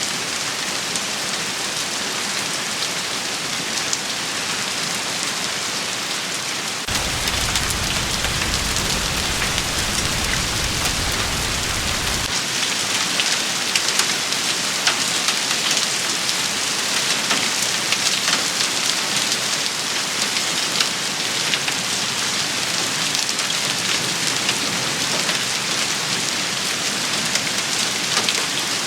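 Heavy rain shower falling steadily, full of small sharp drop hits. About seven seconds in it grows louder and a low rumble joins for about five seconds.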